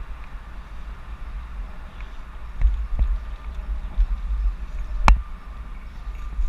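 Wind rushing over a bike-mounted GoPro's microphone with a low rumble from the moving bicycle, and several sharp knocks as bumps jolt the camera, the loudest about five seconds in.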